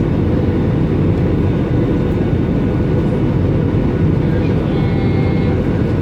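Airbus A320 cabin noise in flight, heard from a window seat: a loud, steady rumble of engine and airflow noise as the airliner descends toward landing.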